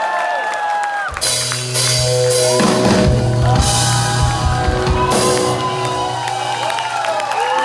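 Rock band playing live: drum kit with cymbal crashes over held bass and guitar chords, kicking in about a second in. Crowd shouts and whoops run over it.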